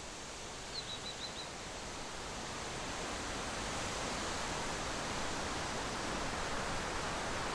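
Steady outdoor rushing noise, growing gradually louder, with four quick high chirps about a second in.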